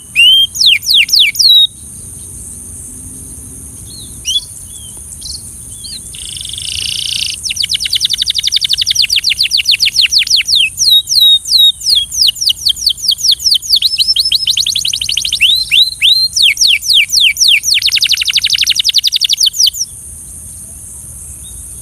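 Belgian canary singing: fast trills of rapidly repeated, downward-sweeping high notes. A short trill opens, a few scattered notes follow, and about a third of the way in a long rolling trill starts that stops shortly before the end.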